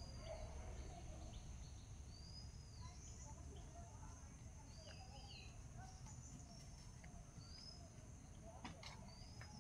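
Very faint sound: a bird chirping over and over, one short rising-and-falling chirp about every two seconds, over a low hum. There are a couple of light clicks near the end.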